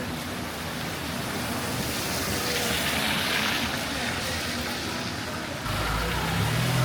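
Rain and traffic noise on a wet city street. A car's tyres hiss past on the wet road, swelling a little past the middle. A vehicle engine's low rumble comes in abruptly near the end.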